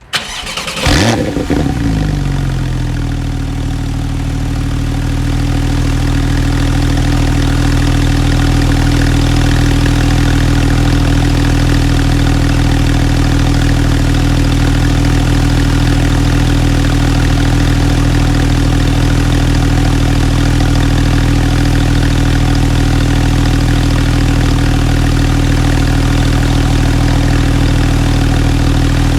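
Porsche 911 Carrera S (991.2) twin-turbo flat-six with sports exhaust starting up: a loud flare about a second in that falls away, then a steady idle.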